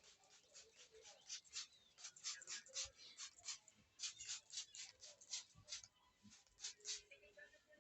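Faint scratchy rubbing strokes, several a second in uneven runs.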